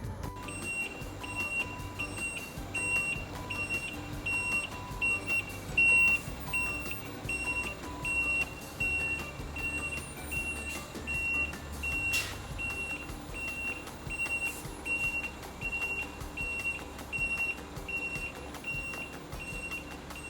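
Vehicle reversing alarm beeping steadily, about two high beeps a second. A second, lower-pitched beeper runs alongside and stops about eight seconds in, over a low engine rumble.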